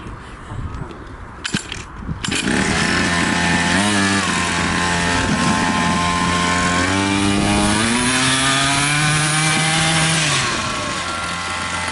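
50cc mini moto engine starting up about two seconds in, after a few clicks, then running and revving, its pitch rising and stepping up. Near the end it drops back to a lower, steady idle.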